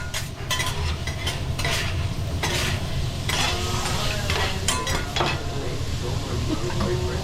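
Food sizzling on a teppanyaki griddle, with metal spatulas scraping and clacking on the hot steel plate about once a second, over a steady low hum.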